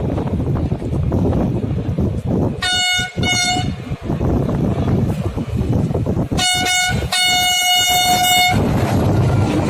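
Train horn sounding two short blasts, then a short blast and a long one a few seconds later, over a steady low rumble.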